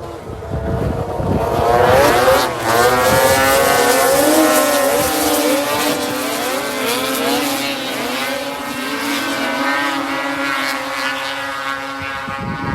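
Several racing snowmobiles passing close by, their engines revving up and down over one another. The sound builds over the first two seconds and stays loud.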